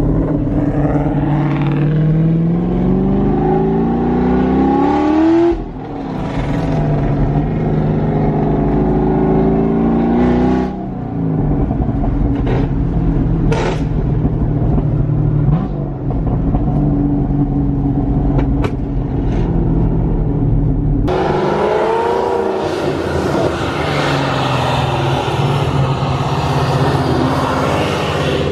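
Car engine and exhaust under acceleration: the pitch climbs and breaks off at an upshift twice, then holds steady at cruise. About twenty seconds in, a loud rushing noise joins as the engine pitch climbs again.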